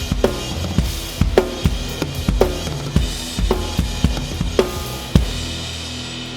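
Drum kit played along with a recorded rock song: a steady groove of bass drum and snare hits over the backing track. A final strong hit comes about five seconds in, after which the drums stop and the song's music carries on.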